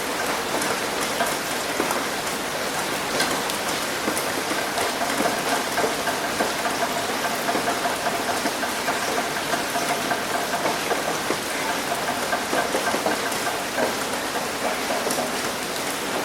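Rain falling steadily on a roof: a dense patter of many individual drops over a continuous hiss.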